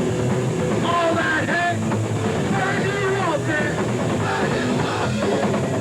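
A hardcore punk band playing live, with distorted guitars, bass and drums and shouted vocals over them, as heard through a home camcorder's microphone.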